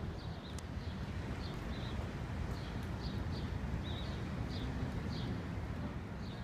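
Small birds chirping, short high chirps about two or three a second, over a steady low rumble of street background noise.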